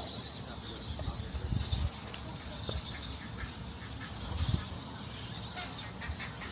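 Insects chirring in a fast, even, high-pitched pulse, with a couple of low buffets of wind or handling on the microphone, the strongest about a second and a half in and again near four and a half seconds.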